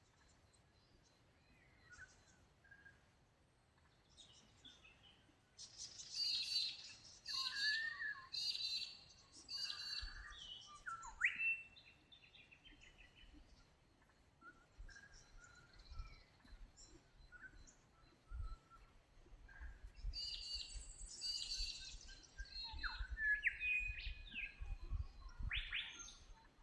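Australian birds chirping and calling, several short calls and quick rising notes in two busy bouts. A low rumble sits underneath in the second half.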